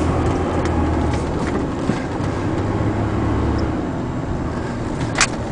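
A 2000 Ford Ranger's 3.0 V6 running, heard from inside the cab as a steady low hum that drops away about three and a half seconds in. A sharp click sounds near the end.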